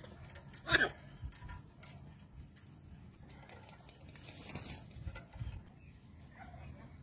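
A parrot gives one short squawk a little under a second in, followed by faint scattered taps and rustling.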